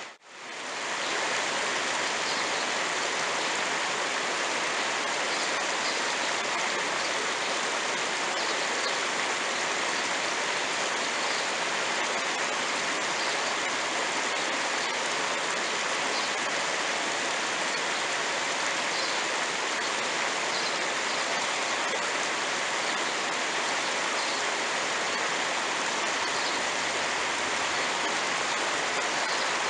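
Steady rush of flowing creek water, an even hiss that holds unchanged throughout.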